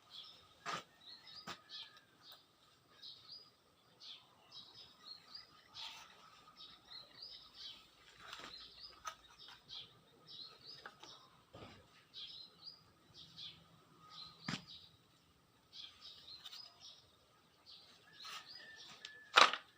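Small birds chirping and twittering in many short, quick notes, over a faint steady tone. A few sharp knocks come at irregular intervals, and the loudest is near the end.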